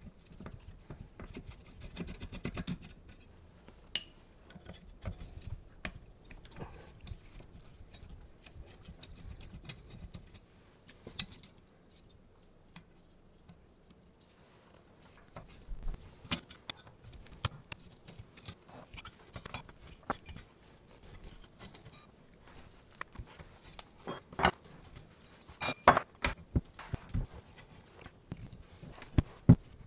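Small metal parts and hand tools being handled on a workbench: scattered clinks, taps and knocks, busiest and loudest near the end.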